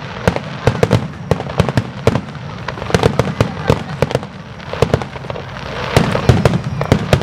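Fireworks display: a rapid barrage of shell bursts, several sharp bangs a second, growing denser and louder near the end.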